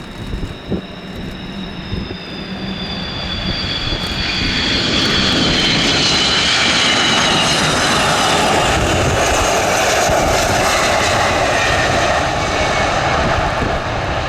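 Boeing KC-135R's four CFM F108 turbofans during a go-around flypast. The engine roar swells over the first few seconds and stays loud, with a high whine above it that slides slowly down in pitch as the jet passes.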